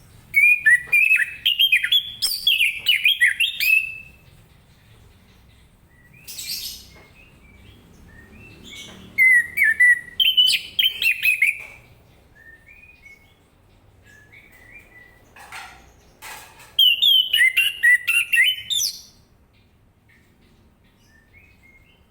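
Orange-headed thrush singing in three loud bouts of quick, varied whistled phrases, with a few soft single notes between them. Two brief noisy bursts come between the bouts.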